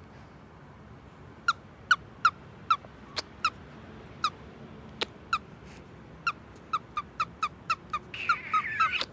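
A pet bird giving short, clipped chirps, about twenty in all, starting about a second and a half in and coming faster toward the end, where they run into a brief warbling call. Two sharp clicks fall among the chirps.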